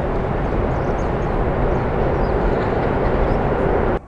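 Electric commuter train crossing a steel railway bridge: a steady, loud rumble that cuts off suddenly near the end.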